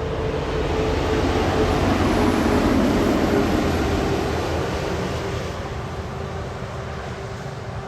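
A heavy truck passing by. Engine and tyre noise swell to a peak about two to three seconds in, then fade away, with a steady engine tone that drops slightly in pitch as the truck goes past.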